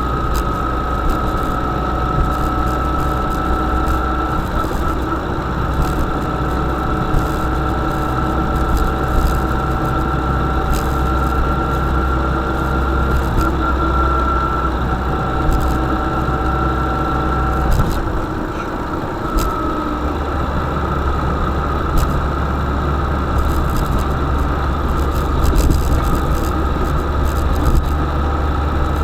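UAZ-452 "Bukhanka" van engine and drivetrain running on the move, with a steady whine that creeps slightly up in pitch and scattered clicks and rattles. The engine note and level dip briefly about eighteen seconds in, then pick up again.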